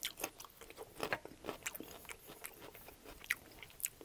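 Close-miked crunchy chewing of a raw carrot stick: irregular sharp crunches and mouth clicks as it is bitten and chewed.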